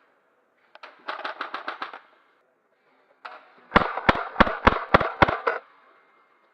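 Airsoft guns firing in a close-quarters game: a quick string of about seven shots, then six louder single shots in a row, about three a second.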